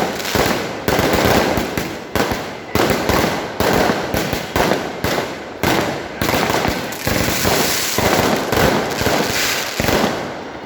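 Fireworks going off in quick succession: loud bangs about one a second, each trailing off in a crackling rumble.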